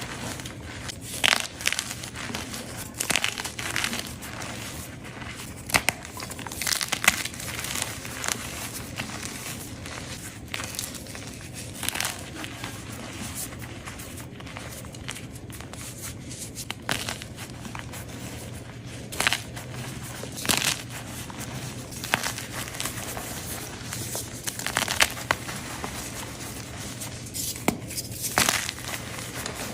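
Gym chalk being crushed and crumbled: irregular sharp crunches with softer crumbling in between, over a faint steady low hum.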